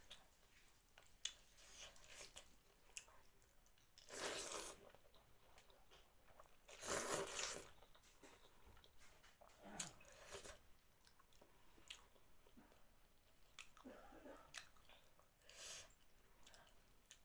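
Close-up mouth sounds of a person eating thukpa and aloo chop: chewing and small clicks, with two louder sounds about four and seven seconds in, each about half a second long.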